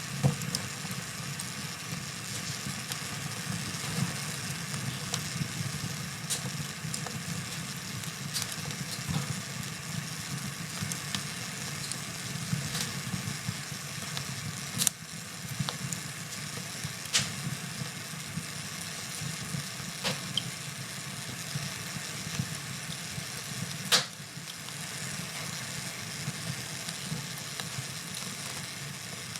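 Wood fire burning in a fireplace: a steady low rumble of flame with scattered crackles and sharp pops, the loudest pops coming near the start, around the middle and about four-fifths of the way through.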